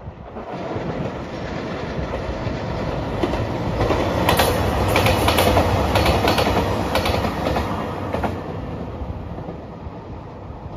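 JR Shikoku 2700 series diesel limited express train passing close by. It grows louder to a peak in the middle, where the wheels clack over the rail joints in a quick run of clicks, then fades as it pulls away.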